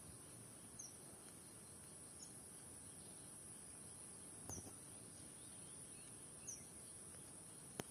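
Faint forest ambience: a steady, high-pitched insect drone, with short, falling bird chirps every couple of seconds. A sharp click comes near the end.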